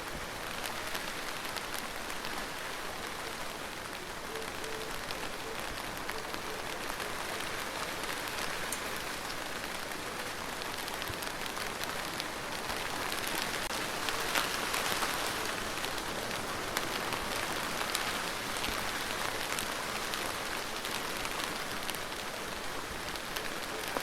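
Steady rain falling on a surface, a dense hiss with many separate drop ticks, swelling a little louder about halfway through.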